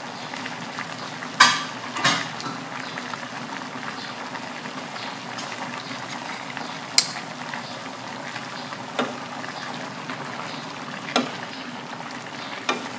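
Pork and vegetables sizzling steadily in a metal wok over a low gas flame, with a few short sharp clicks through it. Near the end a wooden spatula stirs the food against the pan.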